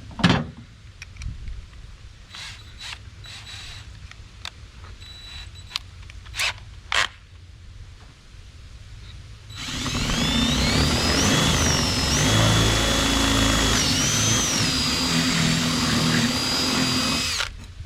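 A few clicks and knocks of handling, then about ten seconds in a power drill starts up and runs for about eight seconds. It is boring a larger hole through a wooden board, its whine rising and then shifting pitch under load, and it stops suddenly near the end.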